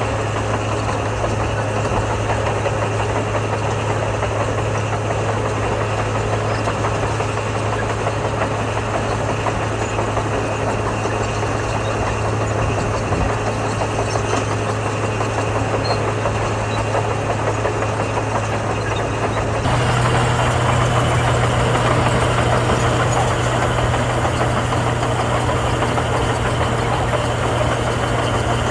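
Heavy diesel engine of construction machinery running steadily. About two-thirds of the way through, the sound jumps abruptly louder and slightly higher in pitch.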